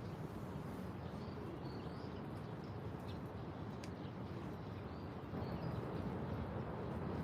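A few short, faint high bird chirps over a steady low background rumble.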